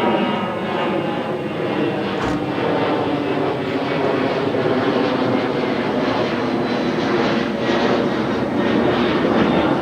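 1500HD pickup's V8 running through an X-pipe and dual Carven exhaust, a steady, loud exhaust drone that swells slightly now and then.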